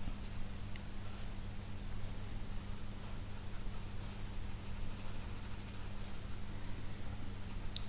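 2B graphite pencil sketching on paper: continuous soft scratching strokes, over a steady low hum.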